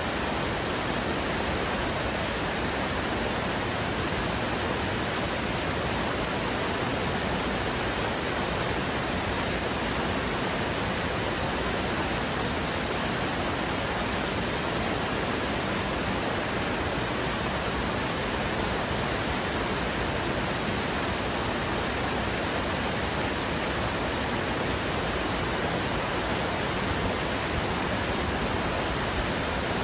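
Steady, unchanging rushing noise of falling water, even across low and high pitches, with no breaks or separate sounds.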